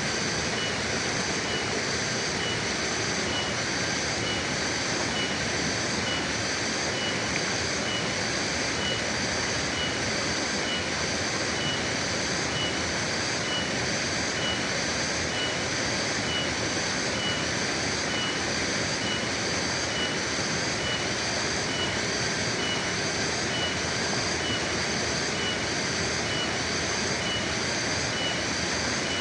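Forest river flowing steadily, an even rush of water. Over it, a high, thin tone pulses about once a second.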